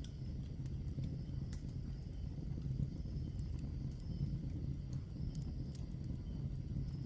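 Wood fire crackling, sharp scattered pops and snaps over a steady low rumble of the burning logs.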